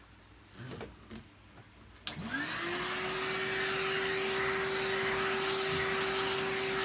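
A vacuum cleaner switched on with a click about two seconds in. Its motor spins up in a quick rising whine, then runs at a steady pitch with a rush of air, sucking debris off the parts.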